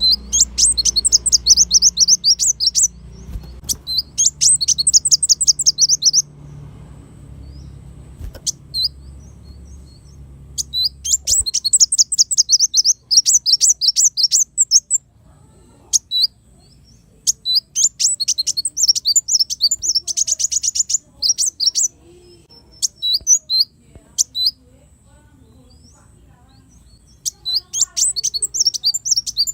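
Kolibri wulung sunbird singing: bursts of fast, high, twittering trills two to three seconds long, repeated about five times, with short single chirps in between.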